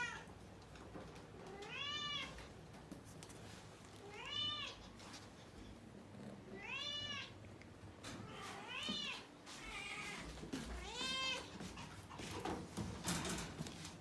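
Domestic cat meowing repeatedly, about six meows roughly two seconds apart, each rising then falling in pitch. Light knocks and rustling follow near the end.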